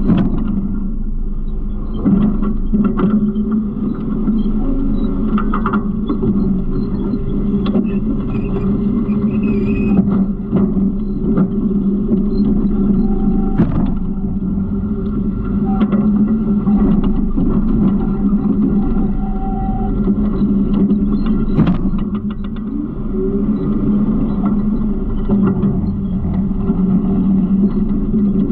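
Garbage truck's engine running steadily, with sharp knocks and rattles now and then.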